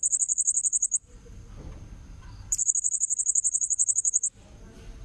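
Blue-crowned hanging parrot (serindit) lure-call recording: very high, rapid pulsed trills in bursts. One burst ends about a second in, a longer one runs from about two and a half to four and a half seconds, and another starts right at the end.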